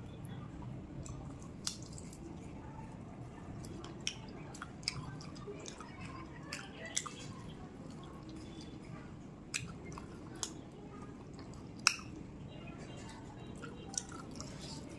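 A person chewing a mouthful of rice and curry, with wet mouth smacks and sharp, scattered lip and tongue clicks over a steady low background hum.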